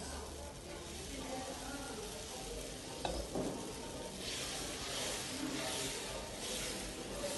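Dosa batter sizzling on a hot griddle, louder from about four seconds in. Two sharp clinks of steel utensils come about three seconds in.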